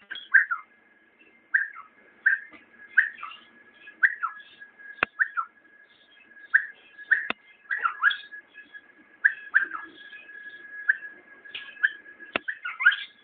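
Bulbul singing: short whistled notes repeated roughly once a second over a faint steady tone, with a few sharp clicks.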